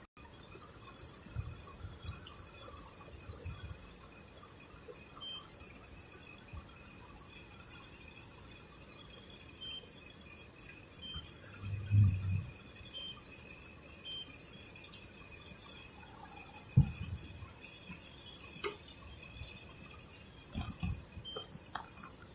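Insects chirping in a steady, high-pitched evening chorus, with faint short chirps over it. A couple of dull thumps stand out, the loudest about twelve seconds in and another a few seconds later.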